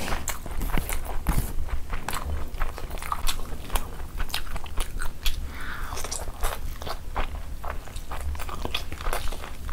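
Close-miked chewing of a mouthful of chicken curry and rice, with many small irregular clicks and smacks of the mouth.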